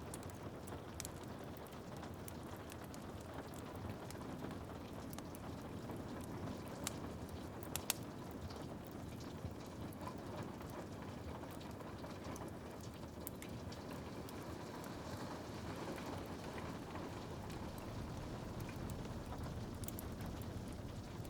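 Steady rain on window glass with a wood fire crackling and popping in a fireplace; sharp pops come at random through the steady rain, two louder ones about seven and eight seconds in.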